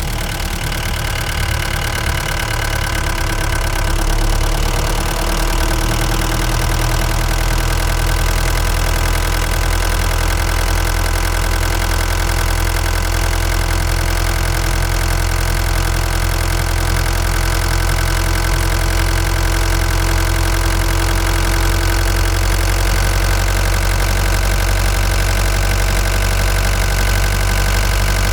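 Ford Transit Mk5 van's engine running steadily on the move, a low drone that gets a little louder about four seconds in.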